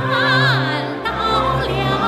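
Music: a singer with a wide vibrato over orchestral accompaniment, the voice sliding down in pitch about half a second in.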